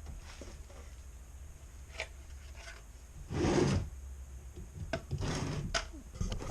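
Handling of a TIPM fuse box's plastic housing and circuit board as the board is worked out: rubbing and scraping, loudest about three and a half seconds in, with a second scrape about five seconds in and a few small clicks.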